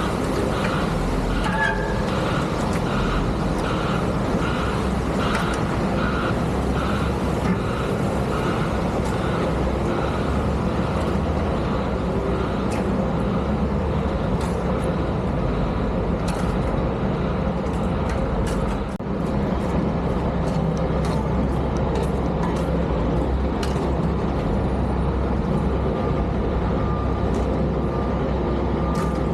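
Heavy diesel snow-removal vehicles running with a steady low rumble, a reversing alarm beeping about three times every two seconds through the first ten seconds or so. Scattered sharp knocks and clicks come later.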